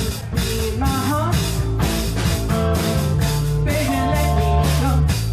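Live four-piece rock covers band playing: drum kit keeping a steady beat under bass and electric guitar, with some singing.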